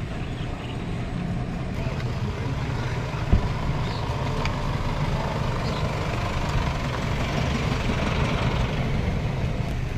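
Steady low rumble of a motor vehicle running, with one sharp knock about three seconds in.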